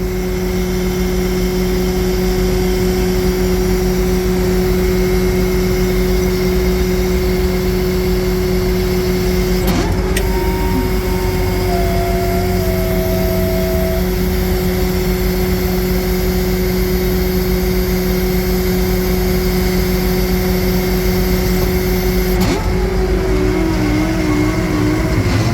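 Freightliner M2 asphalt patch truck running, its Cummins diesel engine and patch equipment making a steady hum, with a single click about ten seconds in.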